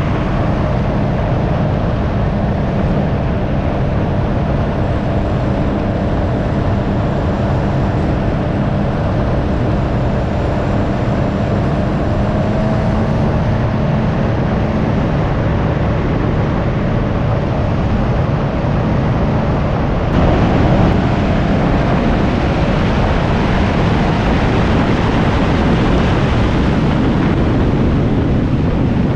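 Can-Am Ryker 900's three-cylinder engine running while riding, under heavy wind noise. The engine note rises a little about twelve seconds in, and the wind grows louder from about twenty seconds in.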